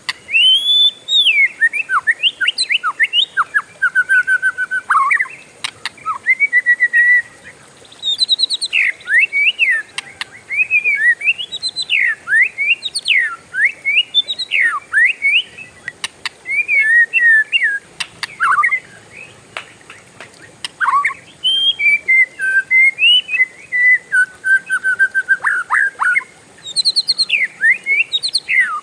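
Oriental magpie-robin (kacer) singing a long, varied song of loud whistled glides and rapid repeated notes, with a few brief pauses.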